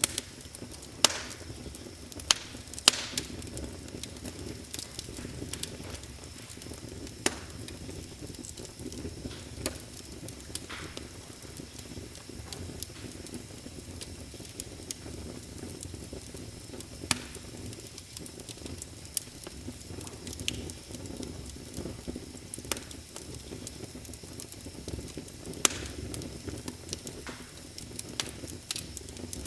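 Wood fire burning in a fireplace: a steady low rush of flame with irregular sharp crackles and pops, a few much louder snaps scattered through.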